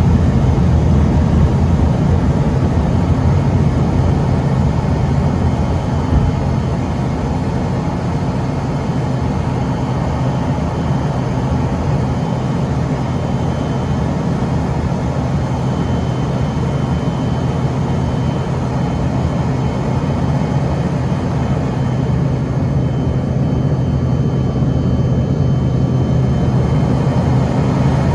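Steady jet engine noise heard inside the cabin of an Embraer ERJ-145 from its twin rear-mounted Rolls-Royce AE 3007 turbofans, a constant low hum under a wide rush of noise.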